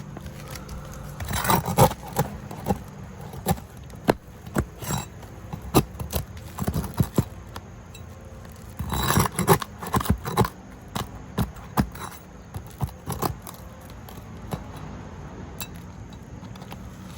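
Hand tools scraping and clinking, with scattered sharp taps and knocks. There are two louder stretches of scraping, one about a second in and one about nine seconds in.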